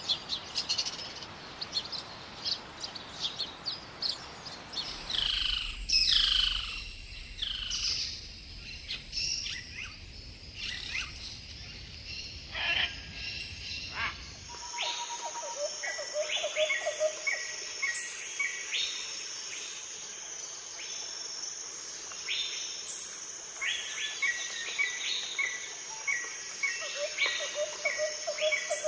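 Forest birds calling and chirping, many short overlapping calls and whistles. From about halfway on, a steady high insect buzz sits under them.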